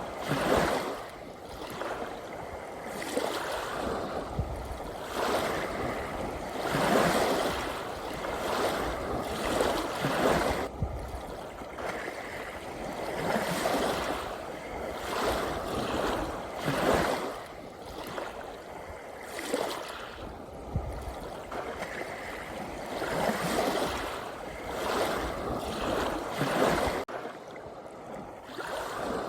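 Sea waves washing in, each wash of water swelling and fading every two to four seconds.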